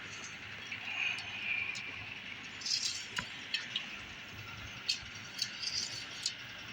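Scattered light metallic clicks and clinks of an engine oil dipstick being pulled from its tube and slid back in during an oil-level check, over a steady faint hiss.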